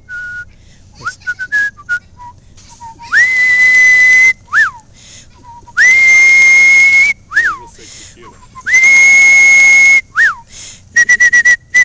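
Thick-billed parrot whistling a tune: a few short notes, then three long, very loud whistles, each followed by a short falling note, and a quick run of notes near the end.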